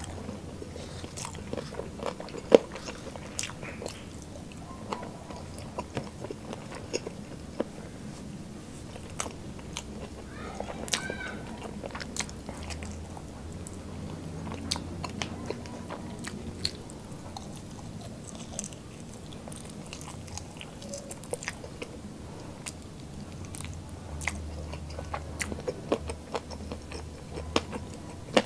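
Close-miked chewing and biting of crispy fried food, with wet mouth sounds and sharp crunches scattered throughout. A low steady hum runs underneath.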